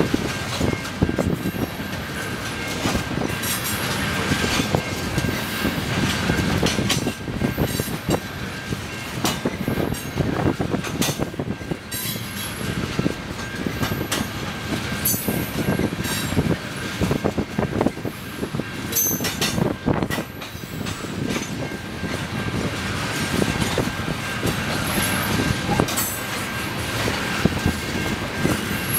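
Freight train of tank cars rolling past: a steady rumble of wheels on rail, broken by frequent irregular clicks and clanks of the wheels over the rail joints, with a thin steady high tone running through it.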